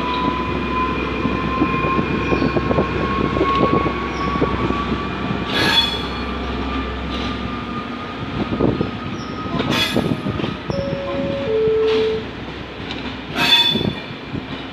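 Double-deck regional passenger train with its electric locomotive moving slowly through a station during a shunting move. Its wheels and running gear rumble and clank, under a steady high whine that rises slightly in pitch. About eleven seconds in come two short tones, the second lower.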